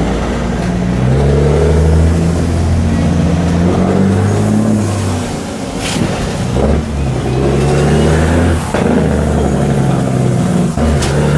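Heavy diesel truck engine running and revving, its low drone stepping up and down in pitch.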